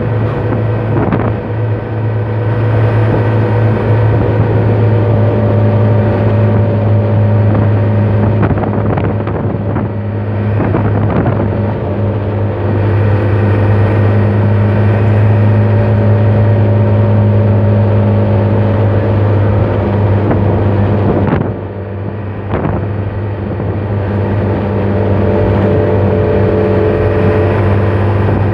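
Truck's freshly overhauled diesel engine running steadily while driving, a loud low drone. The engine note drops briefly about 21 seconds in, then picks up again.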